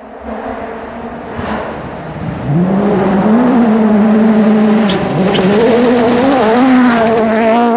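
Rally car engine at high revs, growing louder as it approaches over the first few seconds, then held loud and close with brief dips in pitch from gear changes or throttle lifts. Two sharp cracks come near the middle.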